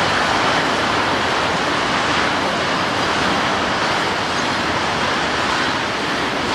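Freight train of auto rack cars rolling past, a steady rushing noise of steel wheels on rail.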